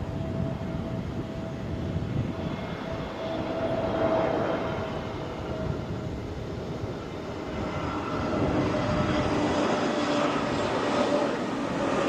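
Jet airliner's engines whining on its landing approach, a few steady tones that grow louder from about eight seconds in, over a low rumble of wind on the microphone.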